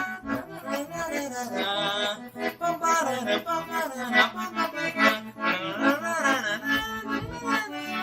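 Accordion playing the tune with the bass buttons marking a baião rhythm in short, regularly repeated bass notes.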